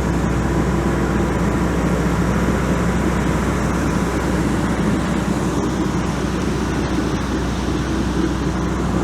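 Boat engine running steadily underway: a constant low hum over an even rushing noise.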